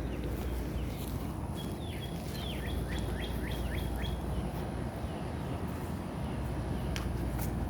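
A songbird singing a quick series of high, downward-swooping notes over a steady low background rumble, with one sharp click near the end.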